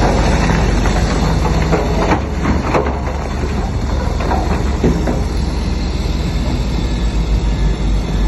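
Heavy diesel earthmoving machinery running under load: a loud, steady low rumble with metallic clanks and squeaks, clustered around two to three seconds in and again about five seconds in.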